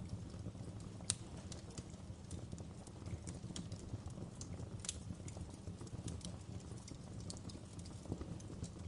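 Wood fire in a fireplace crackling: irregular sharp pops and snaps over a steady low rumble of flame, with one louder crack about a second in.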